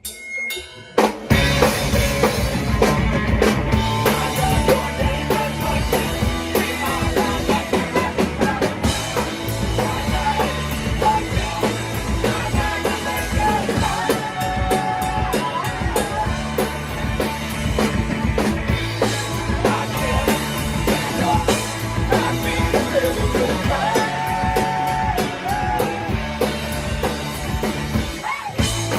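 Live punk-rock band playing loud and full: drum kit, electric guitars and bass, kicking in about a second after a brief lead-in.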